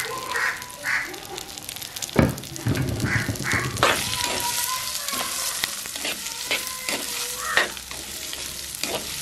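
Shallots, green chillies and curry leaves sizzling in hot oil in a clay pot, stirred with a wooden spoon that clicks and scrapes against the pot, with one heavier thump about two seconds in. Crows caw a few times in the first seconds.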